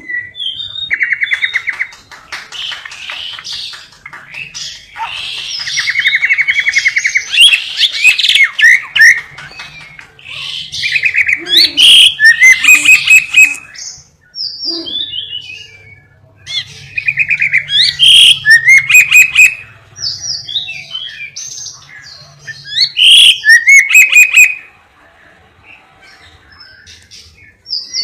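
Caged lovebird singing a canary-style song taught by tutoring: long phrases of fast buzzy trills and sharp chirps, broken by short pauses, with a quieter spell near the end.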